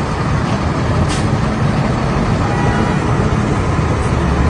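Street traffic noise: a steady low rumble of vehicle engines, with a short hiss about a second in.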